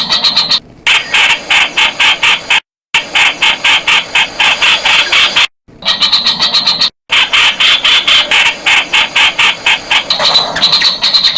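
Streak-eared Bulbul calling: a fast run of harsh, chattering notes, about five a second, that stops dead and restarts a few times.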